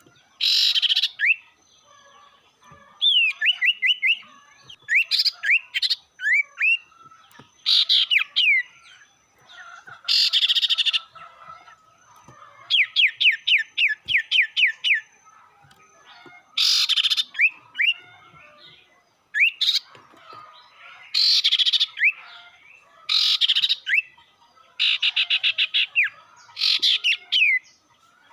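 A sirtu (sirpu) songbird calling excitedly: loud harsh rasping bursts alternate with quick runs of short, downward-sliding whistled notes, repeated about every two to three seconds. It is the aggressive call used as a lure to provoke rival birds.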